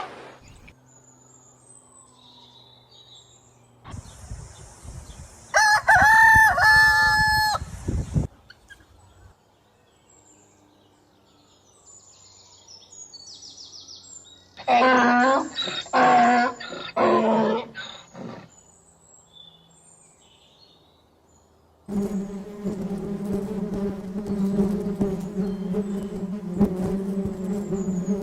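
A rooster crowing once, with a noisy onset, about a quarter of the way in. Then a cluster of shorter pitched calls about midway, and from about three-quarters through, the steady buzzing of a flying insect.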